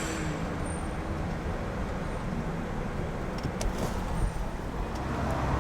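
Steady road-traffic noise with a low rumble and a few faint clicks.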